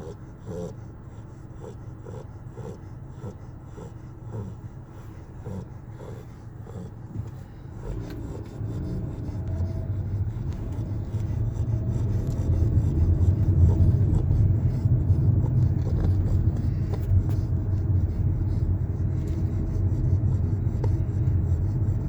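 Yellow Labrador retriever puppy snoring in its sleep: short snores in an even rhythm, under two a second. From about eight seconds in, a louder, steady low rasping rumble takes over.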